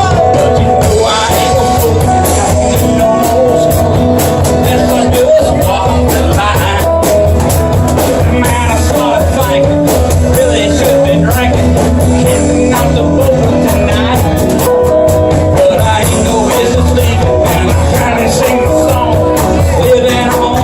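A live band jam: amplified guitar and drums playing a rock-blues groove with a steady beat, with some singing.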